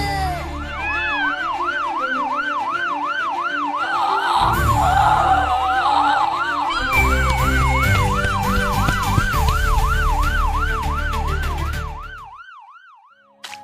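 Police siren sweeping rapidly up and down, about two and a half cycles a second, over background music, fading away near the end.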